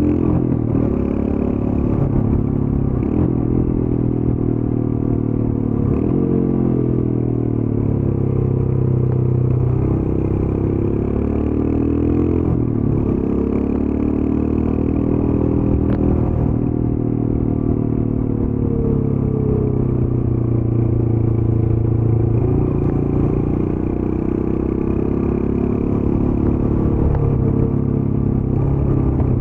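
Royal Enfield Scram 411's single-cylinder engine running through its stock exhaust while riding. The engine note rises and falls every few seconds as the throttle opens and closes through gear changes, with short clicks at the changes.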